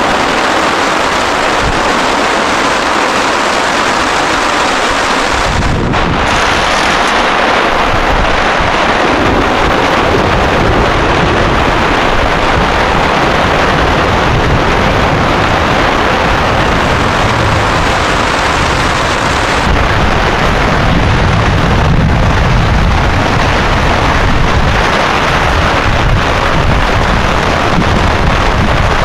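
Heavy downpour: a loud, steady rush of rain. About six seconds in, a deep rumble joins it and grows stronger in the second half.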